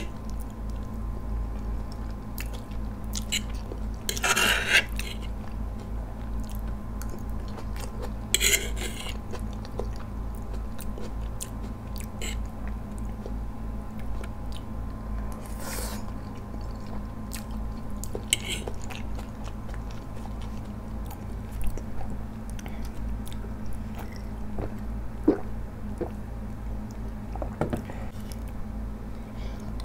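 Close-miked chewing and biting of a mouthful of instant ramen noodles, wet mouth sounds with short louder bursts every few seconds, over a steady low hum.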